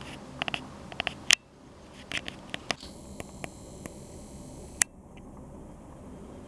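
A seagull pecking at food: a run of sharp beak taps and clicks in quick clusters. Partway through a brief high hiss comes in and cuts off with a click, and the rest is quieter.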